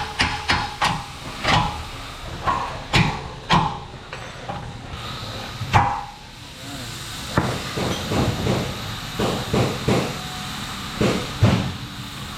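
Hammer striking metal over and over. The first strikes come quickly and evenly, a few heavier blows ring out in the first half, and a steady run of about three strikes a second follows.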